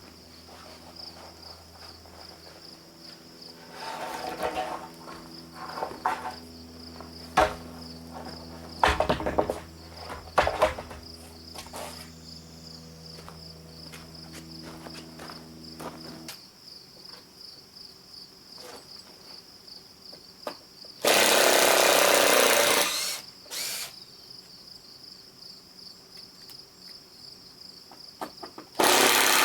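Crickets chirping steadily. A low machine hum runs underneath and stops about halfway through. There are a few knocks, and two loud bursts of hissing noise come later, one lasting about two seconds and one at the very end.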